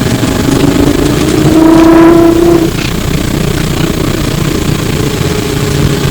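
Flyer E902 trolleybus's electric traction motor whining as the bus accelerates, heard from inside the bus. The whine's pitch climbs and it is loudest about two seconds in, then cuts off sharply just before three seconds, leaving the steady rumble of the bus under way.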